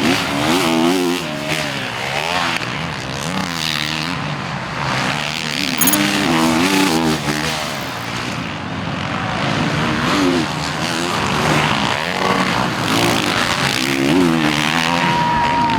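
Several 450-class motocross bike engines racing, their pitch rising and falling over and over as the riders work the throttle and shift.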